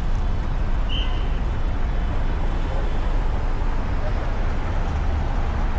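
Steady low rumble of city street traffic, with a brief high chirp about a second in.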